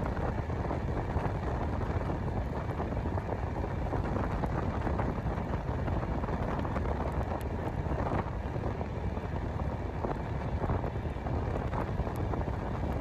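Steady running noise of a passenger train on the move: a low rumble with light rattling, and wind buffeting the microphone.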